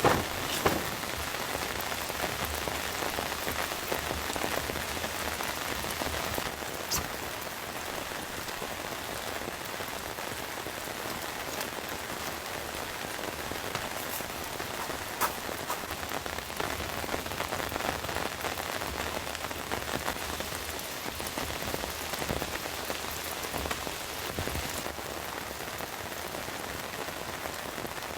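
Steady heavy rain falling on tent fabric, a continuous hiss dotted with many separate sharp drop hits.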